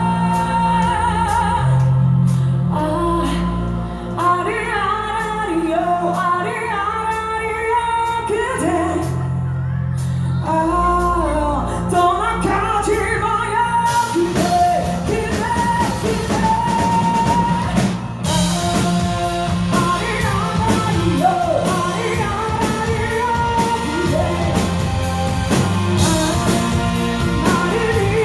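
Music performance: a singer over keyboard and band, with drums and cymbals coming in about halfway through, filling out the sound.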